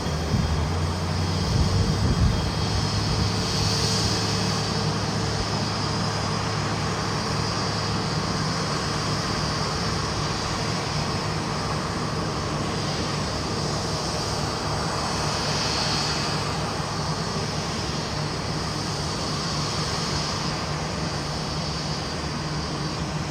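Jet engines of a Boeing 787-9, Rolls-Royce Trent 1000s, running steadily: a continuous rush with a low hum underneath, swelling slightly now and then. A few louder knocks come in the first two seconds.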